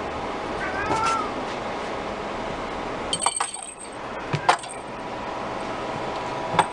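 A Scottish Fold kitten gives one short meow about a second in. Several sharp clicks or knocks follow later, over a steady background hum.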